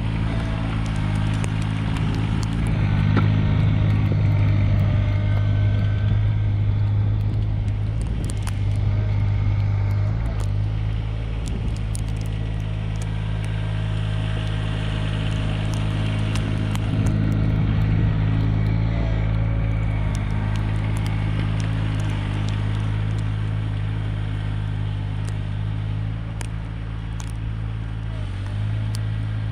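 Mahindra eMax 20S HST compact tractor's three-cylinder diesel engine running at a steady speed, with scattered faint clicks and crackles.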